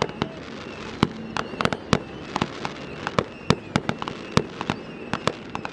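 Fireworks going off in a rapid, irregular barrage of sharp bangs and booms, several a second at times.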